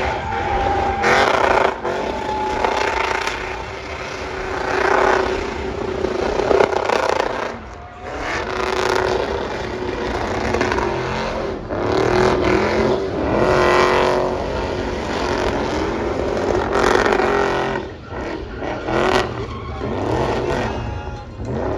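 Race vehicle engines revving and accelerating, rising and falling in pitch, with brief lulls about eight and eighteen seconds in.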